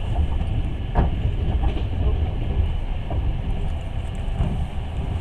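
Passenger train carriage running along the track, heard from inside: a steady low rumble of wheels on rails, with a sharp knock about a second in.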